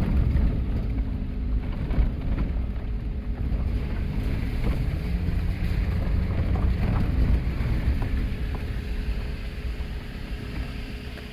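Vehicle engine and road rumble, with some light knocks, dying down near the end.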